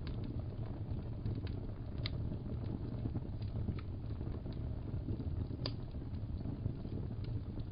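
Crackling log fire: a steady low rumble of flames with scattered sharp pops and crackles, two of them louder, about two seconds in and just before six seconds.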